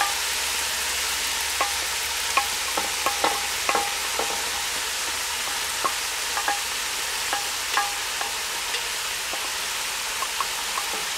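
Meat and freshly added diced onions sizzling steadily in a hot cast-iron Dutch oven, with irregular light taps and scrapes of a wooden spatula pushing the onions off a plastic tray into the pot.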